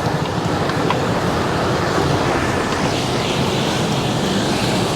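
Steady rush of wind and wet road noise from riding a dirt bike through rain, with the motorcycle running underneath.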